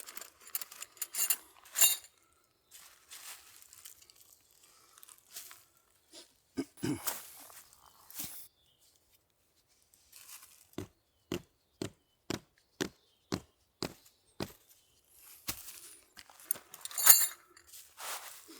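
Camp gear being handled with scattered rustles and clinks, then a run of about eight evenly spaced knocks, roughly two a second, and a louder clatter near the end.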